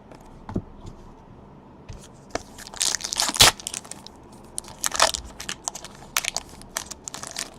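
Plastic and foil card packaging crinkling and tearing as trading card packs are opened and cards handled, in several crackling bursts with sharp clicks, loudest a few seconds in.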